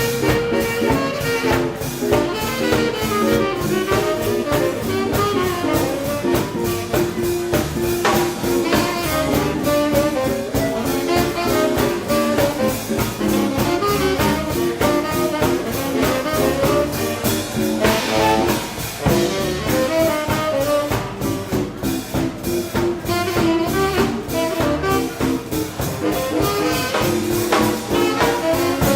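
Live swing band playing an instrumental passage: saxophone and brass lines over a steady drum beat.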